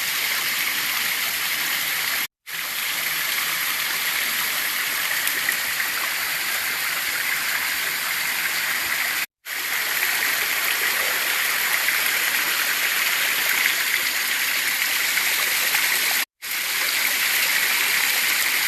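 Waterfall rushing steadily, a loud even hiss of falling water. The sound cuts out completely three times for a split second: dropouts from a poor phone signal.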